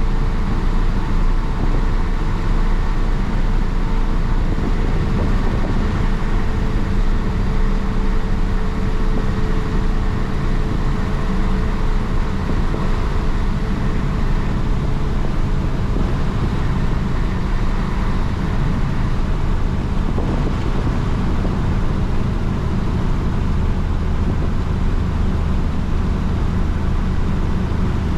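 The diesel engine (Isuzu DA640) of a 1966 Isuzu BXD30 bonnet bus running steadily as the bus drives along the road, with road noise. Its note changes near the end.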